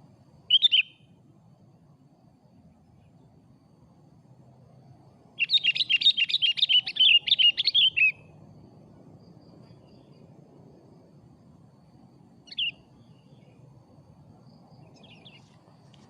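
Sooty-headed bulbul (kutilang) calling: a short call just after the start, then a quick run of chattering notes about five seconds in lasting under three seconds, and another short call later on.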